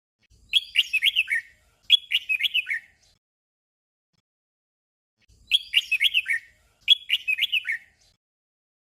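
Red-whiskered bulbul singing a short 'double' song: one brief phrase of a few quick notes falling in pitch, repeated at once. The pair comes twice, with a pause of about two and a half seconds between.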